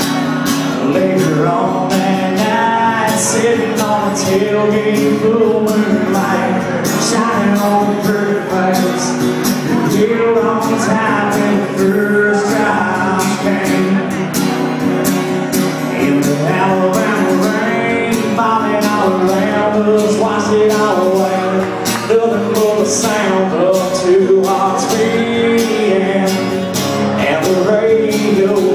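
Live country band playing a song, with a steady drumbeat and a male singer.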